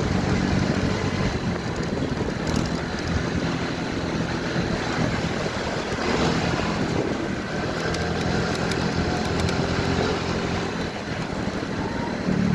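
Motorcycle engine running at a steady pace while riding, with its pitch shifting slightly now and then, under a constant rush of wind and road noise.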